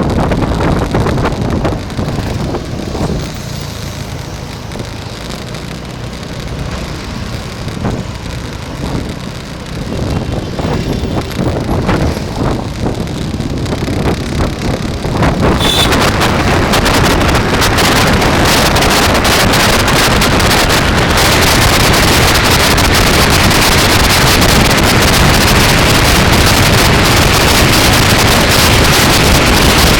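Wind buffeting the microphone of a camera on a moving bike, a rough rumbling hiss. It grows suddenly louder and fuller about halfway through and stays that way, as the airflow picks up.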